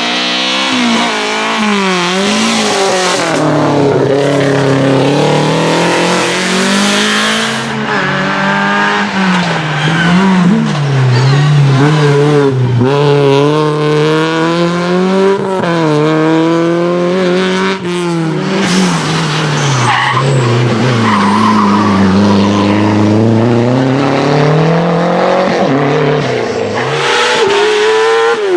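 Race car engine driven hard through a slalom: the revs climb, drop sharply and climb again every few seconds as the car accelerates, lifts and shifts between the cones. Tyres squeal at times.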